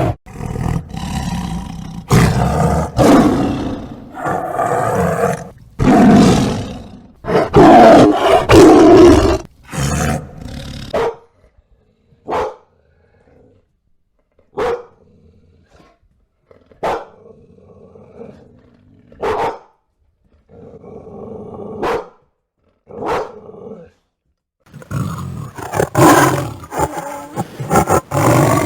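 An animal roaring and growling in loud, long bouts, then a run of short, separate calls with pauses between them, and louder roaring again near the end.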